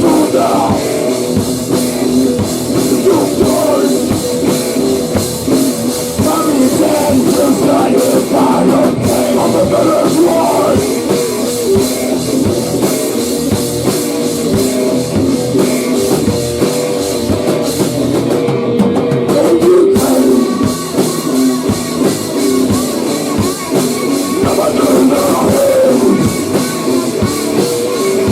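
Loud rock music from a band with a drum kit, in a heavy grunge/hardcore style.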